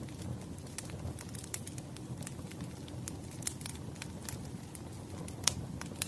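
Wood fire in a fireplace burning with a steady low rumble and irregular sharp crackles and pops, one louder pop about five and a half seconds in.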